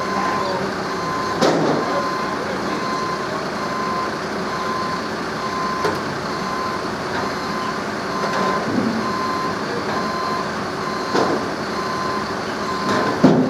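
Reversing alarm on a heavy vehicle, beeping one steady mid-pitched tone at an even pace over a constant background rumble. A few short knocks come about a second in and again near the end.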